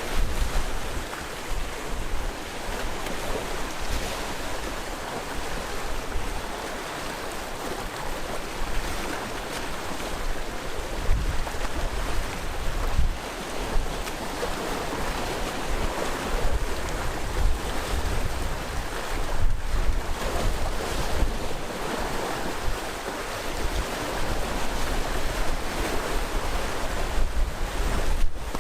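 Sea waves surging and washing continuously against the coast in irregular swells, with wind buffeting the microphone as a low rumble.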